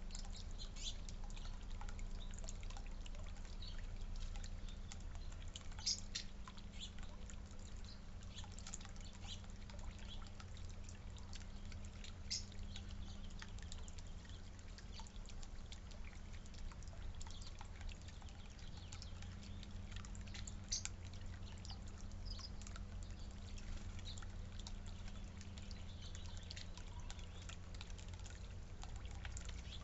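Small backyard birds feeding and drinking: scattered faint chirps and small clicks, with a few sharper ones about 6, 12 and 21 seconds in, over a steady low hum.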